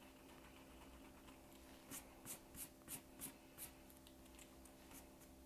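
Pencil drawing on paper: a quick run of about six short, faint scratching strokes a little before the middle, otherwise near silence.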